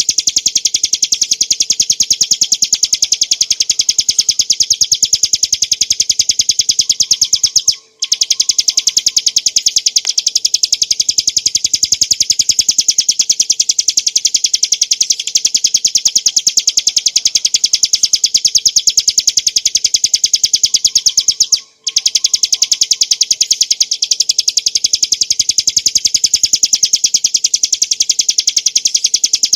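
Ciblek gunung (a prinia) singing a rapid, unbroken string of high, sharp chirps many times a second, pausing briefly twice.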